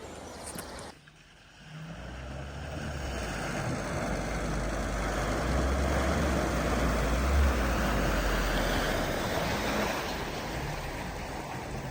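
A vehicle engine running and straining, louder about six to eight seconds in, over a steady rushing noise. The vehicle is trying to pull a stuck car.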